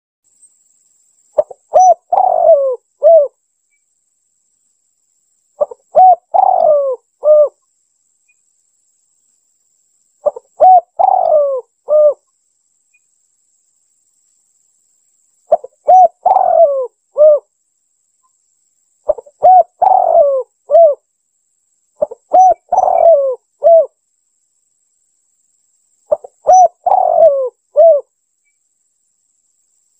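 Spotted dove (tekukur) cooing: seven repeated call phrases, each a few short coos followed by a longer slurred coo and a final note, spaced a few seconds apart. This is a lure call for drawing in wild doves.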